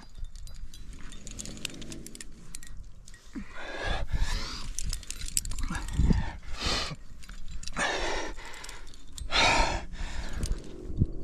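A rock climber breathing hard and panting with effort while working a hard friction-slab move, with several louder gasping breaths in the second half. Light clicks and clinks, typical of climbing gear, are heard throughout.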